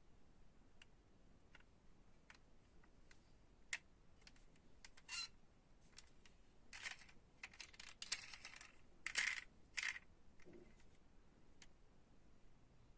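Hands handling small diecast toy cars and their packaging: scattered light clicks and taps, with several short bursts of rustling and handling noise between about five and ten seconds in.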